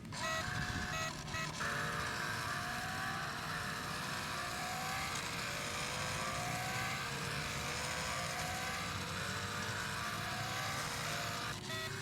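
A toy RC pickup's electronic engine-sound module playing a simulated engine through its small speaker, its pitch rising again and again as if revving up through the gears. It opens with a few short electronic tones.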